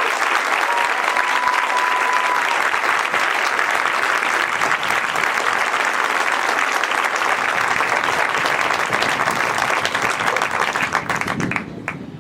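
Audience applauding steadily, with a brief whistle about a second in; the applause dies away near the end.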